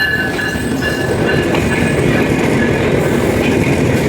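Passenger train running on the rails: a steady, loud rumble and clatter of wheels on track, with a thin high-pitched tone coming and going above it.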